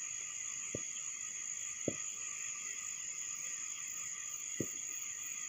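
Steady high-pitched chorus of crickets at night, with three short, dull thuds of distant fireworks bursting, about one second in, near two seconds in and again after four and a half seconds.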